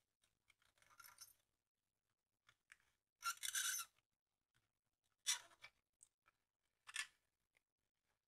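Short scraping strokes, four in all, the longest and loudest about three seconds in, as excess solder is cleared from the transceiver's output-stage board.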